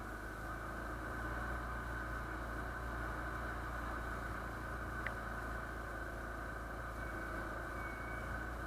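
Motorcycle engine running steadily, with a single faint click about five seconds in.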